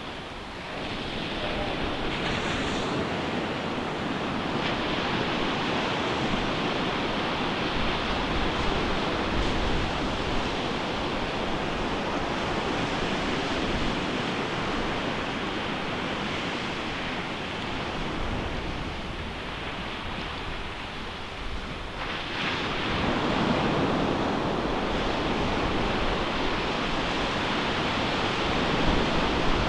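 Ocean waves breaking on a beach: a continuous wash of surf that swells about a second in, eases off for a few seconds around twenty seconds in, then builds again as the next wave crashes.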